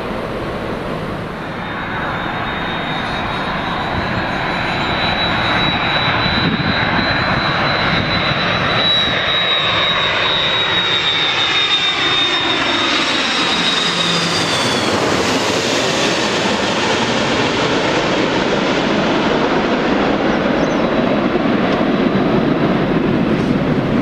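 Jet airliner on landing approach passing close by: a high engine whine over a growing roar, the whine dropping in pitch as the aircraft goes past about fifteen seconds in, then a steady roar.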